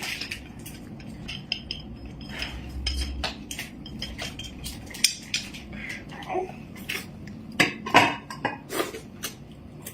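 Eating utensils clinking and knocking against bowls and dishes: irregular light clicks, with a few louder knocks about five and eight seconds in.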